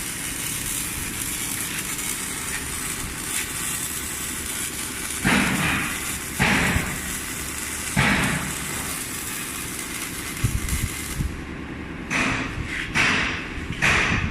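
CO2 (MIG) welding arc crackling steadily as a bead is run along the steel floor of a truck container box, with a few louder surges of spatter. The arc stops about eleven seconds in, and a run of short knocks and clatters follows.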